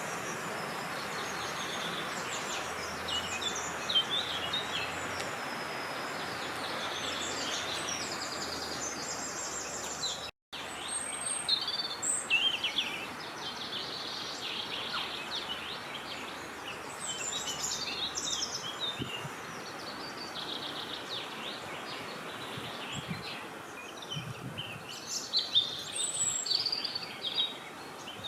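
Small birds singing and chirping over a steady rush of wind. The sound cuts out for a split second about ten seconds in, and the wind is softer after it.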